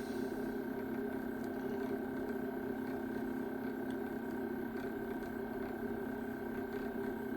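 Z-axis stepper motor of a 6040 CNC router driving the axis down slowly, giving a steady, even hum with a fixed pitch.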